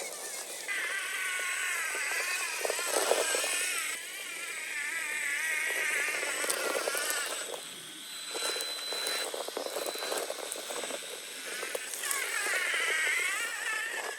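Electric motor and geared drivetrain of a 1/10-scale RC rock racer whining as it crawls over rock, the pitch wavering up and down with the throttle and easing off twice. Scattered clicks and knocks of tyres and chassis on the rocks.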